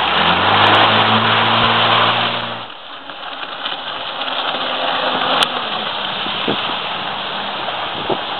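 Honda jet ski engine running at speed under a loud rush of wind and water spray. About three seconds in the engine note drops away and the level dips, leaving a fainter engine and the water rush.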